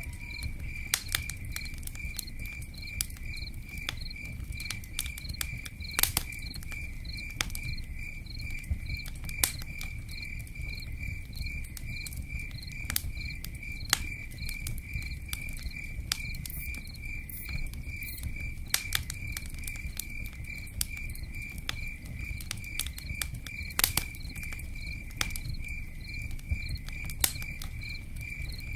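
A cricket chirping in a steady high-pitched rhythm, a few chirps a second, over a low rumble with scattered sharp crackles and pops from a campfire.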